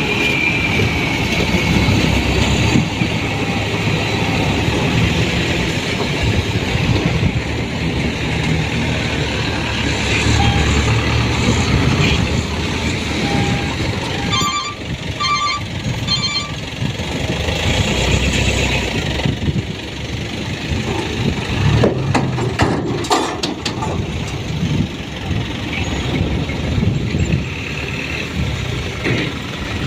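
Diesel engines of small dump trucks running with changing load. About halfway through, a reversing alarm beeps four times.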